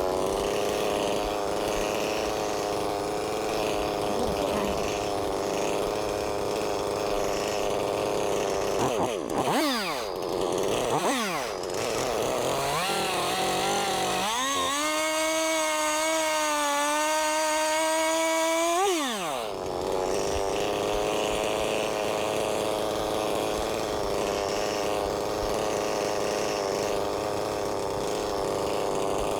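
Stihl MS-391 chainsaw cutting a log, running at a steady pitch under load. Around a third of the way in the pitch swoops briefly, and in the middle it runs at a clearly higher pitch for about five seconds before dropping back to the steady cutting note.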